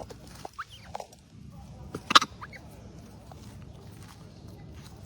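A few short, high animal squeaks and chirps, the loudest a single sharp call about two seconds in, over faint outdoor ambience.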